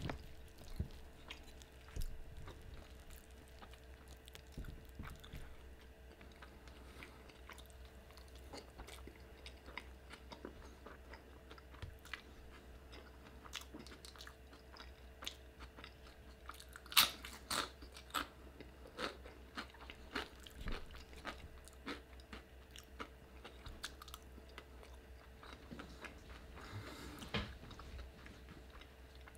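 Close-miked chewing and wet mouth sounds of a man eating a cheese-covered wet burrito, with scattered soft clicks, over a faint steady hum. A louder run of sharp mouth sounds comes about 17 seconds in, and another near the end.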